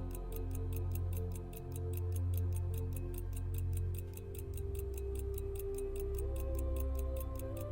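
Cortebert cal. 523 pocket watch movement ticking steadily, about five ticks a second, over background music with slow sustained tones.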